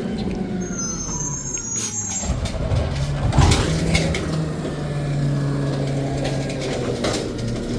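Garbage truck engine running steadily, with a brief high squeal about a second in and a few sharp clunks.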